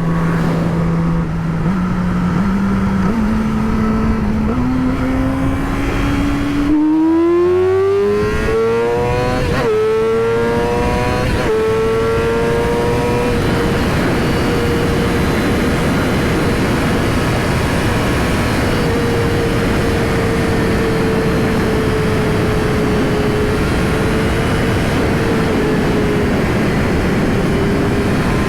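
Yamaha R6's inline-four engine with a slip-on exhaust accelerating, its revs climbing over the first dozen seconds with a short break partway through the climb, then holding high and nearly steady at speed, with wind rushing over the microphone.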